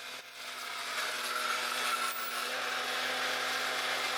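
Small skid steer loader running with the high tip bucket attachment: a steady engine and hydraulic hum under a harsh, raspy noise that gets louder about a second in and then holds.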